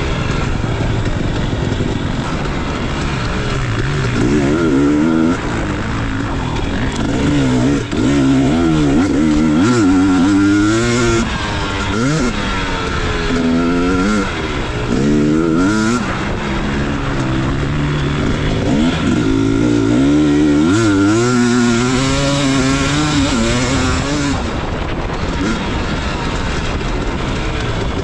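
Motocross dirt bike engine ridden hard, its pitch climbing and dropping every second or two as the throttle opens and closes and it shifts gears.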